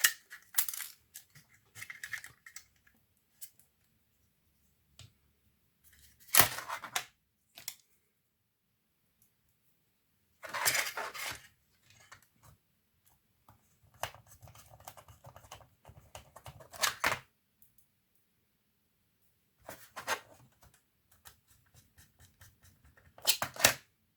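Handling of laptop parts: scattered bursts of clicking and scraping, separated by pauses. The loudest bursts come about six seconds in, near eleven seconds, and just before the end.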